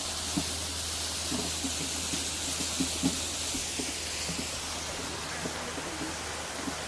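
Steady rushing hiss of a waterfall and its stream.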